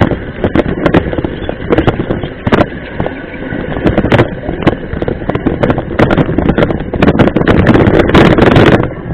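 Mountain bike clattering over a rough trail, with many irregular sharp knocks and rattles over steady wind noise on the microphone. A louder hissing rush lasts about a second near the end.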